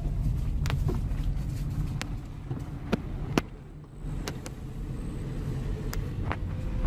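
Car driving downhill, heard from inside the cabin: a steady low road-and-engine rumble with a few scattered sharp taps. The rumble eases briefly about halfway through.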